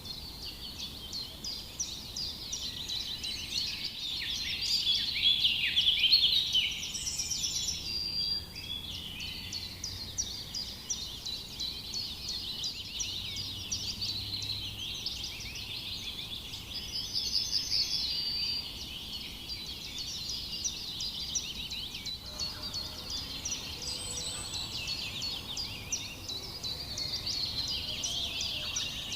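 A flock of small birds chirping and chattering together in a dense chorus of rapid, overlapping high notes, loudest about six seconds in, with a few clearer single calls standing out above it.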